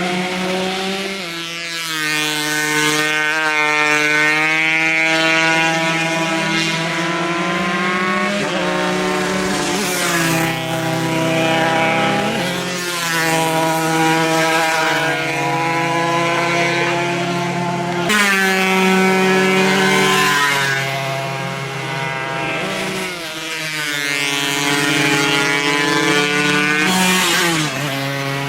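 Several 140 cc two-stroke racing motorcycle engines revving hard as the bikes race, the pitch climbing through each gear and dropping at every shift, over and over with the engines overlapping.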